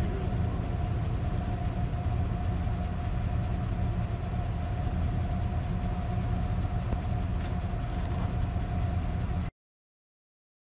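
1955 Chevrolet Nomad's supercharged engine idling steadily on freshly installed spark plugs. The sound cuts off abruptly near the end.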